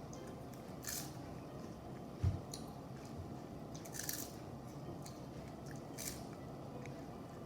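Several short, sharp crunches a second or two apart, with a single dull low thump a little over two seconds in that is the loudest sound.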